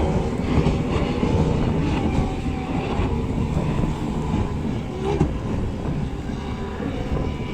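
Racing powerboat engines running, a steady dense drone with a faint wavering whine over it.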